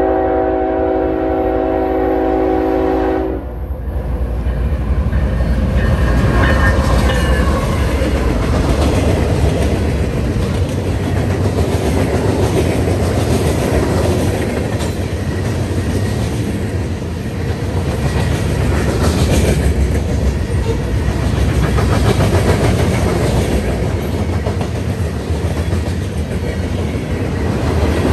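Train horn sounding one held chord of several notes for about three seconds and cutting off. The train then passes close by, its wheels and rails making a loud, steady rumbling noise.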